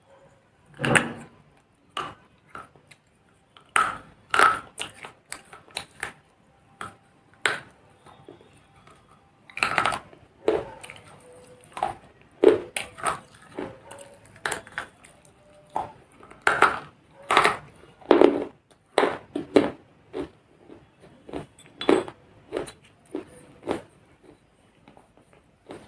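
Small baked clay pots and clay pieces being crunched and broken: irregular sharp cracks and crumbling crunches, sometimes several close together, with short pauses between.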